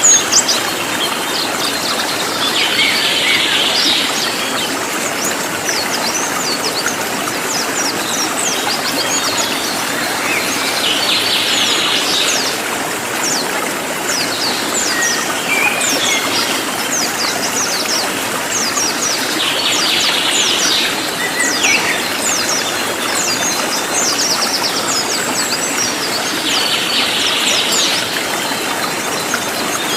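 A cililin songbird singing in dense, rapid runs of high, sharply falling notes. A buzzier phrase comes back about every eight seconds, over a steady rush of flowing water.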